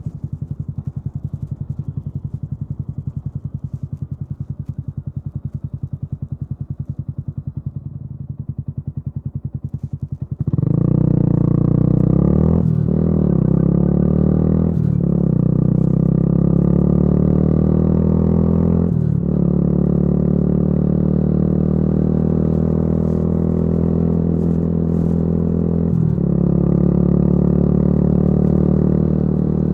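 Yamaha YZF-R125's single-cylinder four-stroke engine through a modified exhaust, idling with an even pulsing beat. About ten seconds in it pulls away hard, the revs climbing in each gear with four brief dips at the upshifts.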